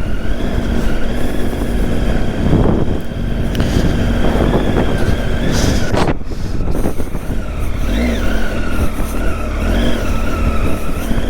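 Triumph Tiger 800's three-cylinder engine running at a fairly steady speed while riding a trail, with a couple of short throttle blips near the end, over a low rumble. A sharp knock about six seconds in.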